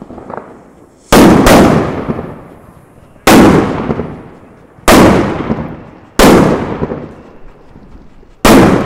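Fireworks from a homemade rack of tubes going off: six loud bangs, the first two close together about a second in, then one every one to two seconds. Each bang trails off over a second or more.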